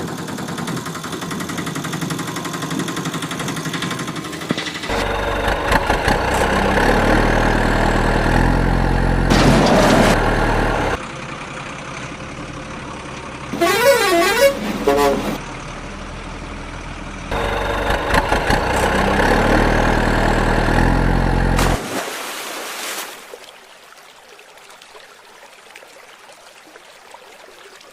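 A series of motor vehicle sounds: engines running and horns honking in separate bursts a few seconds each, with a warbling, siren-like horn about fourteen seconds in. It turns much quieter from about twenty-three seconds.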